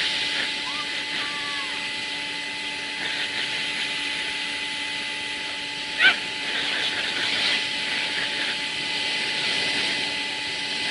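A vacuum cleaner running steadily, a motor hum with a high whine and hiss. A dog gives a few short whining yelps in the first two seconds and one loud bark about six seconds in.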